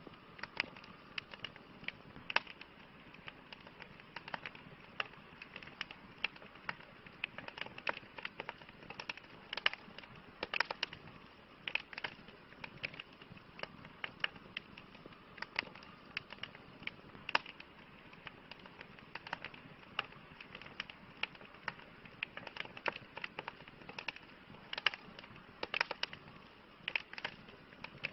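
Campfire burning wood, crackling with irregular sharp pops and snaps over a steady soft hiss.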